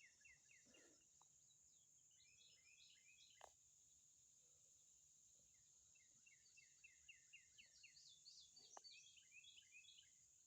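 Faint outdoor ambience: small birds chirping in quick runs of short, falling notes, twice, over a steady high hiss.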